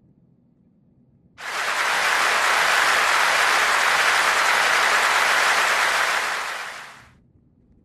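A steady rush of dense noise that starts suddenly about a second and a half in, holds level, and fades out near the end.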